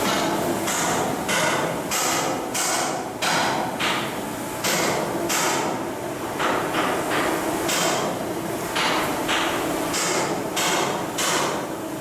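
Hammer blows on steel during hull block assembly, sharp ringing strikes one or two a second at an uneven pace, over a steady low hum.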